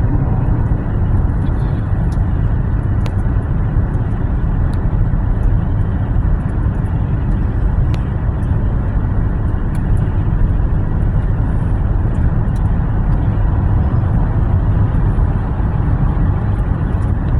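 Steady road and engine noise of a car driving, heard from inside the cabin, deep and even throughout.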